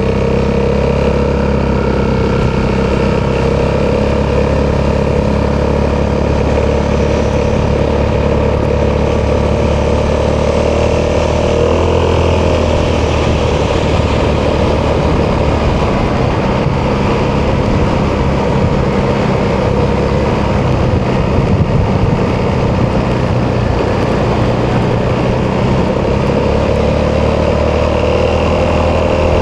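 Italjet Dragster 200's single-cylinder four-stroke engine running through an Akrapovic exhaust while riding, mostly steady, with a small rise and fall in pitch about twelve seconds in.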